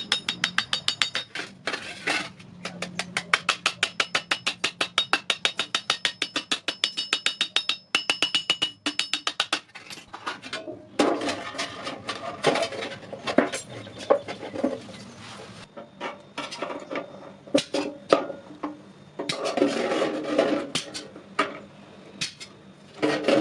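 Hand hammer striking iron in a fast, steady rhythm, about four to five blows a second, each with a ringing metallic tone. About ten seconds in, it gives way to slower, irregular strikes and clatter.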